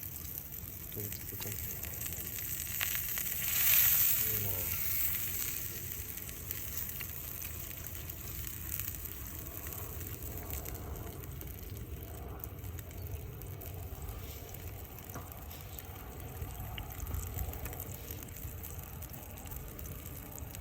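Hamburg steak patties sizzling in a cast-iron skillet over a campfire, with a louder swell of hissing about four seconds in.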